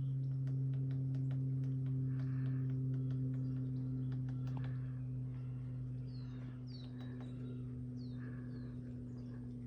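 A steady low hum, the loudest sound, holds throughout. Over it a bird gives several short, high, falling chirps in the second half.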